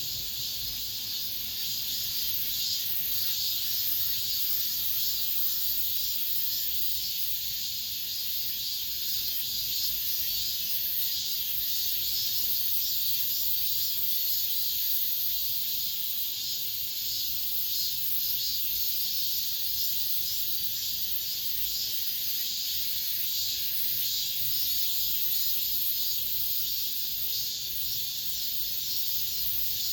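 Cicadas singing in a continuous chorus, a steady high-pitched buzzing drone that holds without a break.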